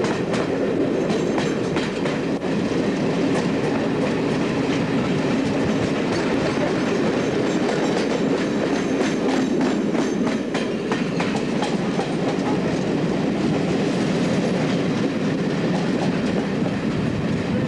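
Passenger train running slowly through pointwork, heard from on board: a steady rumble of running noise with irregular clicks and knocks as the wheels pass over rail joints and crossings.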